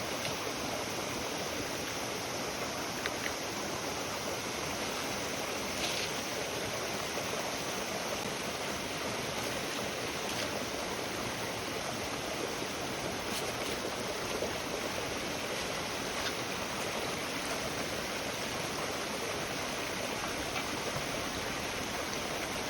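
A steady, even rushing hiss with a few faint short ticks scattered through it.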